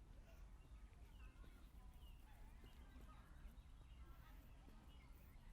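Near silence: faint outdoor walking ambience, a steady low rumble with faint scattered short chirps.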